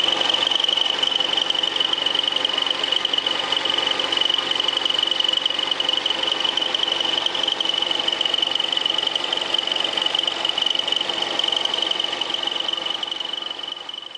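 Lathe running with a milling attachment, a milling cutter held in the chuck cutting a metal workpiece. A steady high-pitched whine sits over the machine's hum, and the sound tapers off near the end.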